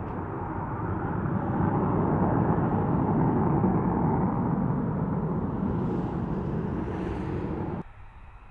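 F-35B Lightning's jet engine: loud, steady jet noise that swells about two seconds in, then cuts off abruptly near the end.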